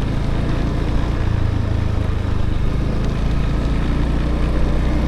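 Motorbike engine running steadily while riding, a continuous low hum.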